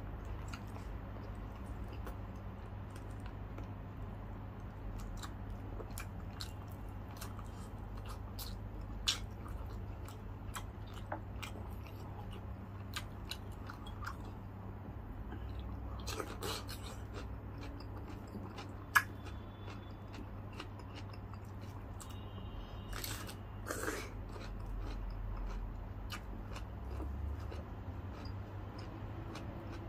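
Close-up chewing and crunching of crispy deep-fried lechon kawali (pork belly), with scattered sharp crackles and two louder snaps about nine and nineteen seconds in. A steady low hum runs underneath.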